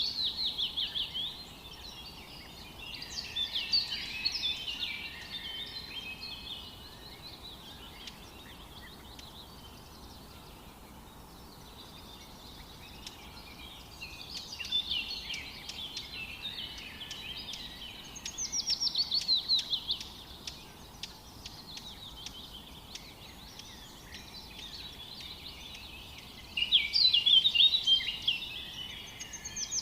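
Songbirds singing in a forest: a run of high song phrases every few seconds, some of them fast series of notes falling in pitch, over a faint steady background hiss.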